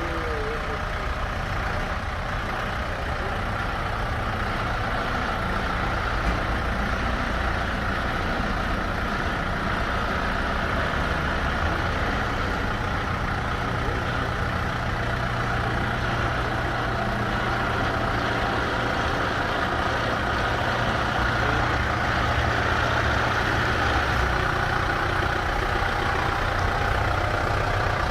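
Kubota M7040 tractor's diesel engine running steadily, growing slightly louder in the second half.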